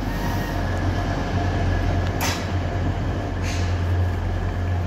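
A Class 180 diesel multiple unit's diesel engines running with a steady low drone as the train pulls out of the station. Two short clunks come about two and three and a half seconds in.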